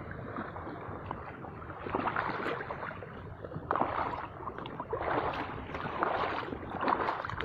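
Sea waves washing and splashing over a shallow rocky shore, surging in irregular swells every second or two.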